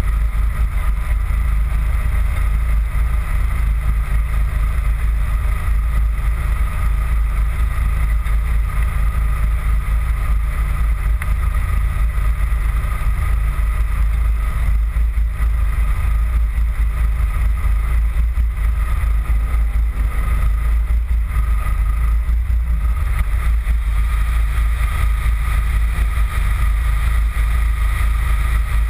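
Steady low rumble of a car engine idling close to the microphone, with a faint steady high whine over it.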